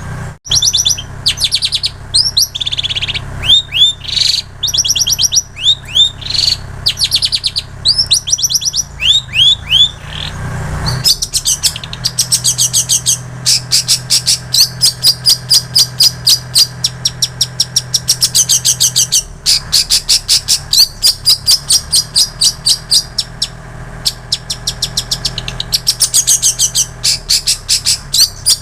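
Long-tailed shrike singing a mimicked song learned from prinia and canary. For about the first ten seconds it gives series of quick downward-sweeping whistled notes. After that come fast, even runs of sharp chirps, about three or four a second.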